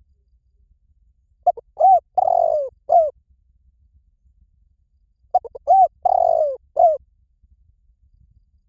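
Spotted dove cooing: two call phrases about four seconds apart, each a few short coos and one longer, drawn-out coo. It is a recorded call played as a lure for wild doves.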